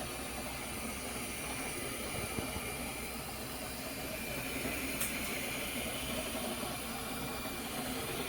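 FlashForge Adventurer 5M 3D printer running mid-print: a steady whir of its fans and motors with a faint high whine, and a faint click about five seconds in.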